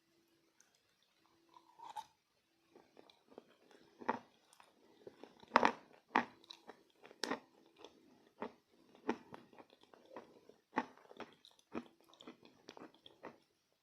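Close-up crunching as a person bites and chews pieces of chalk coated in clay paste, in irregular crisp crunches with the loudest bite about halfway through.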